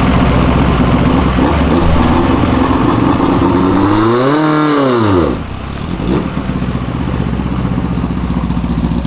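NEMA Lite midget race car engine running loud and steady, revved up and back down once about four to five seconds in, then settling back to a lower, even run.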